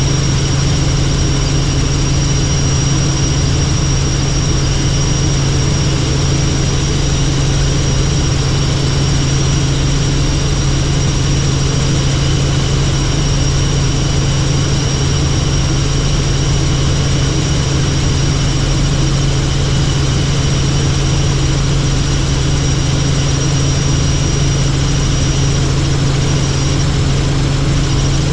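Helicopter in flight: a loud, steady drone of rotor and engine, with a thin high whine that fades out near the end.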